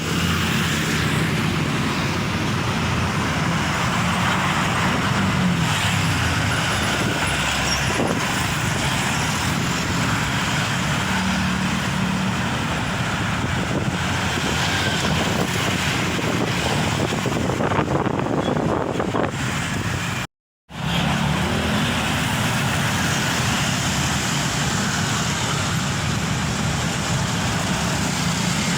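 Diesel engines of Mitsubishi Fuso Fighter three-axle trucks running on a busy road, a low engine drone over steady traffic noise. The sound breaks off for a split second about two-thirds of the way through.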